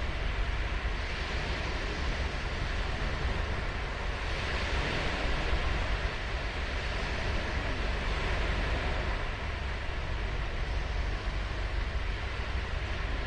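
Ocean surf breaking and washing up a sandy beach, a continuous rush that swells with each wave, most strongly about four seconds in. Under it is a steady low rumble of wind on the microphone.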